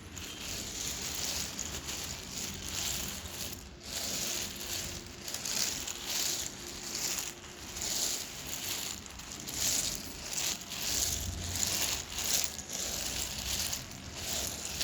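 Dry edible clay crumbles crunching and breaking apart in a steady series of crisp crunches, one or two a second.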